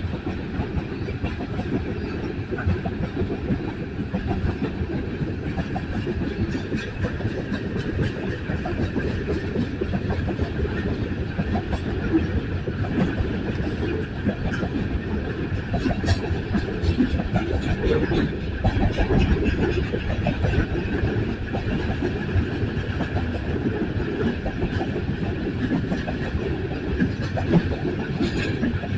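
Freight train cars rolling past, a steady rumble with wheels clicking rapidly over the rail joints.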